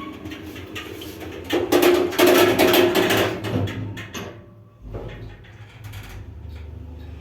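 ЩЛЗ passenger elevator: a loud clattering, whining burst about two seconds in, like the doors and their drive moving. About five seconds in a low, steady, strong hum sets in as the lift runs.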